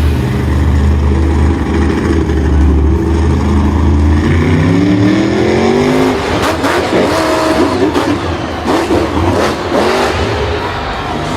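Vehicle engine running with a low, steady drone, its pitch rising about four seconds in as it revs up. After that the sound turns rougher, with a run of knocks and clatters over the engine.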